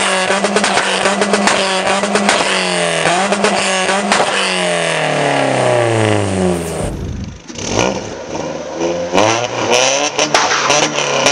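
Ford Fiesta Zetec S engine through a full Milltek exhaust, held against an Omex rev limiter with a steady note broken by rapid crackling pops. The revs then fall away in a long dropping sweep, there is a brief lull, and the engine is revved up again with more crackles near the end.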